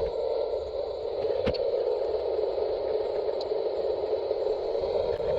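Large-scale garden-railway model locomotive's electric motor and gear drive running with a steady hum, and a single sharp click about one and a half seconds in.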